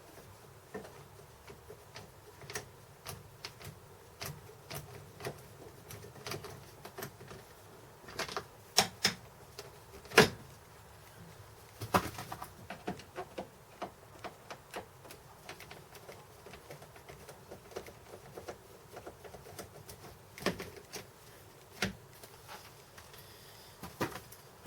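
Irregular clicks, taps and knocks of a flathead screwdriver and plastic trim being handled as the sun visors are unscrewed and taken off a Honda S2000, with a few louder knocks scattered through.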